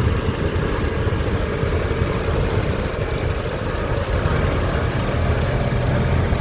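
Tractor engines running steadily with a low, even drone.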